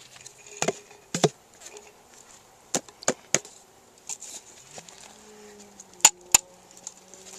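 Sharp knocks and taps, about seven of them in uneven clusters, as a container being used to catch bees is shaken and knocked to make a bee drop in. A faint steady insect buzz runs underneath in the second half.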